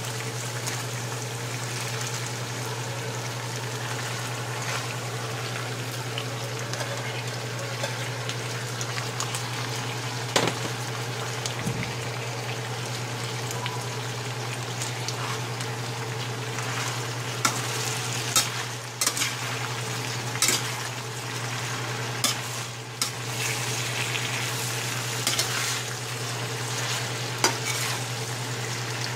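Ground pork and fresh vegetables sizzling in a stainless steel skillet as a stir-fry cooks, with a steady low hum underneath. A metal slotted spatula scrapes and clicks against the pan now and then, more often in the second half.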